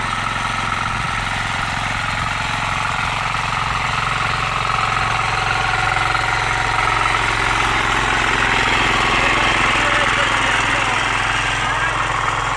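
9.5 hp power weeder's engine running steadily.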